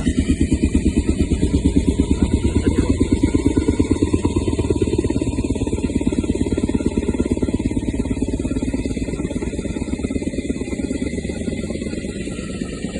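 Helicopter rotor beating with a fast, even thudding pulse. It is loudest in the first few seconds and eases off slightly toward the end.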